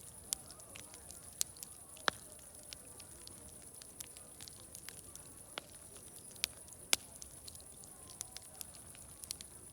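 Wood fire crackling, with irregular sharp pops, the loudest about two seconds in and near seven seconds, over a steady high hiss and a faint distant murmur of voices.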